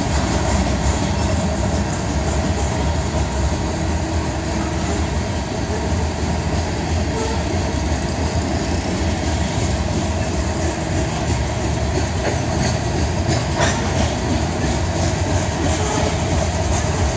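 Covered hopper cars of a long freight train passing close at speed: a steady, loud rumble and rattle of steel wheels on the rails, with occasional sharp clicks.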